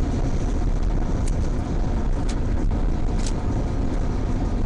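Car cabin road noise while driving: a steady low rumble of engine and tyres, with a few faint ticks about a second apart.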